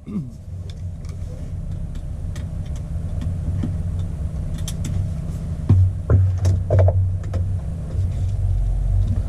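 Ford Excursion's gas V10 heard from inside the cab while driving, a steady low drone that grows gradually louder. A few sharp clicks and knocks come around the middle.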